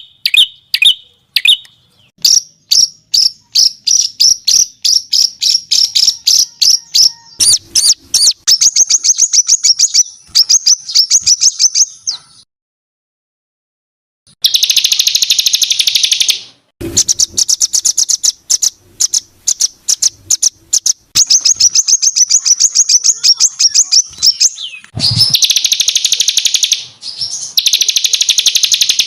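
Recorded songbird song played as masteran (tutor song for competition songbirds): loud, rapid series of sharp chips, a pause of about two seconds midway, then tight, harsh trilled bursts of a couple of seconds each. These are the rough, rapid-fire 'tembakan' notes that trainers want a bird to copy.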